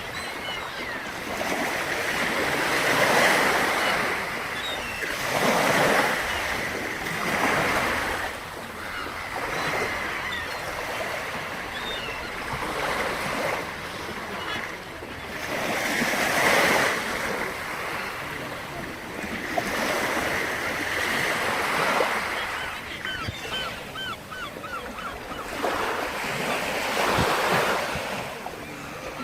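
Black Sea surf: waves breaking on the shore one after another, each surge swelling up and falling away again, about every three to six seconds.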